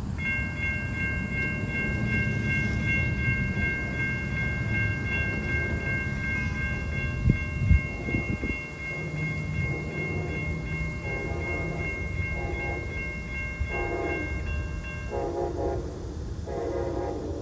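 Amtrak passenger train approaching over a low rumble. A steady high-pitched ringing runs for about 15 seconds. In the second half the locomotive horn sounds in a series of about six short blasts, with a couple of sharp knocks just before.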